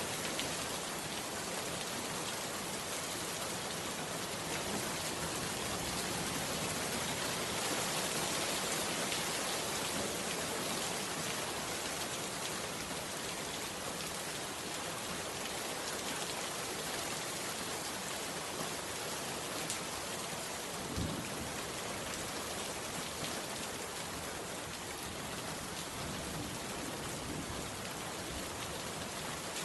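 Steady rain falling, an even hiss of drops without letup, with one brief low thump about two-thirds of the way through.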